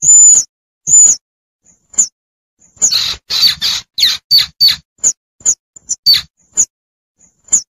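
Young squirrel calling for its mother: short, very high-pitched squeaks about once a second, breaking into a quick run of harsher squeaks in the middle.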